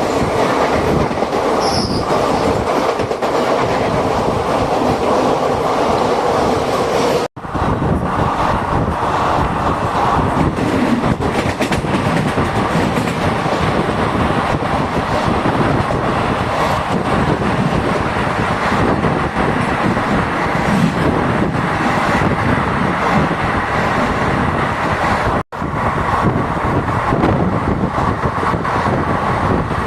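Running noise of a moving passenger train, the Jhelum Express, with the steady rumble and rattle of wheels on the rails. The sound cuts out abruptly twice, for a split second each time.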